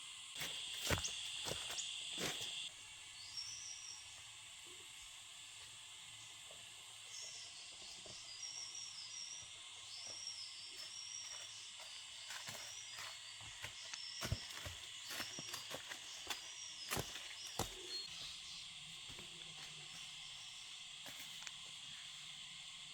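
Forest ambience: a steady high drone of insects, louder for the first two seconds or so, with short chirping bird calls through the middle and a few sharp clicks and knocks scattered through it.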